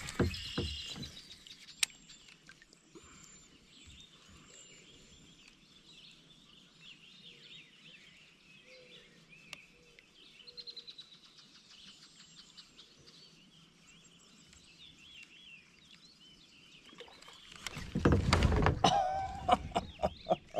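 Faint birds chirping over quiet open-air stillness. Just after the start there is a brief high whir, as from a baitcasting reel's spool paying out line on the cast. A much louder rush of noise comes near the end.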